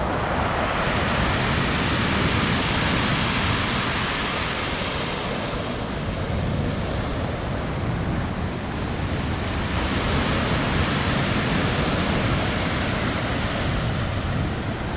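Stormy sea surf: large waves breaking and washing ashore in a continuous roar that swells and eases, with some wind on the microphone.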